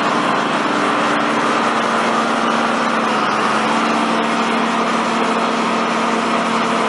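An engine running steadily at a constant speed, an even drone with a steady hum.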